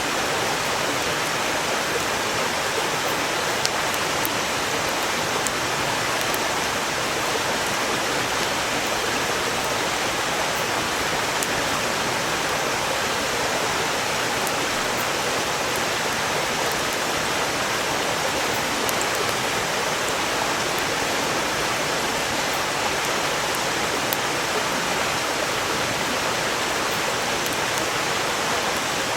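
Valley stream rushing steadily, with faint scattered crackles and pops of burning firewood.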